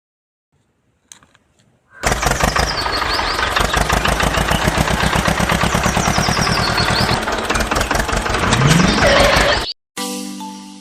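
Tractor engine starting and running with a fast, even beat, cutting off suddenly near the end. A chiming melody begins right after.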